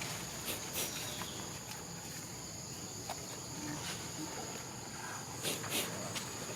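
Steady high-pitched insect trill, with scattered sharp clicks and taps, a few louder ones about a second in and near the end.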